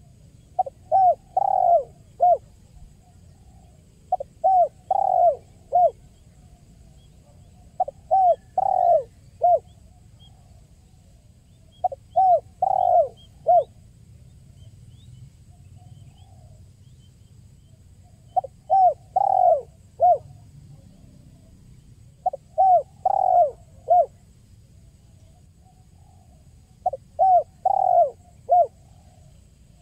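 Spotted dove (tekukur) cooing in the 'kuk 1' song style: repeated phrases of about four short notes, one phrase roughly every four seconds, seven in all, over a faint low hum.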